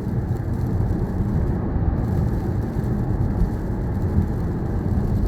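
Steady road and engine noise heard inside the cabin of a moving car: a constant low rumble with no change.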